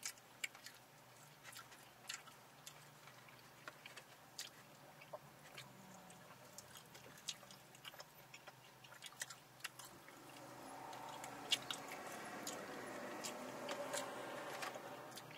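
Close-up chewing and eating sounds: many small sharp mouth and food clicks scattered throughout. A steady pitched hum swells in over the last few seconds.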